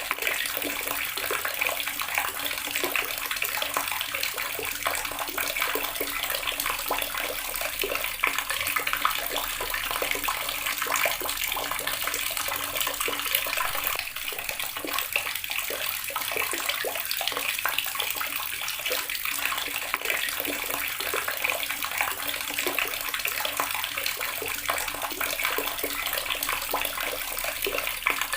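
Water running steadily from a tap, a continuous splashing stream of even strength.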